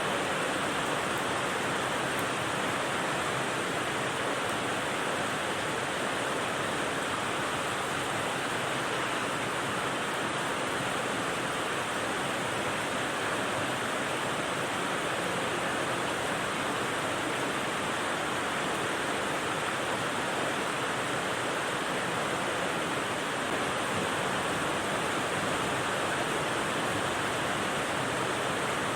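Steady rain noise: an even, unbroken hiss of rainfall, with no single drops or thunder standing out.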